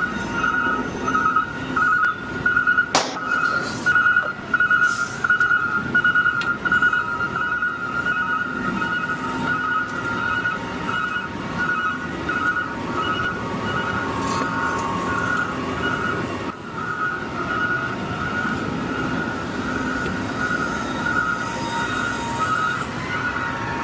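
Truck reversing alarm beeping steadily, about two to three beeps a second, over a running truck engine; a sharp click about three seconds in.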